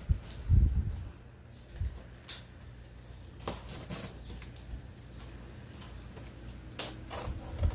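A cardboard shipping box being opened and handled: flaps and packing material flap and rustle, with scattered knocks and a few dull thumps.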